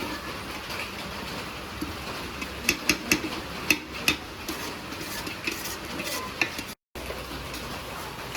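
A spatula stirring and scraping potatoes frying in masala in a pan, with sizzling under it and several sharp metal clinks in the middle. Near the end the sound drops out for a moment, then a steady hiss follows.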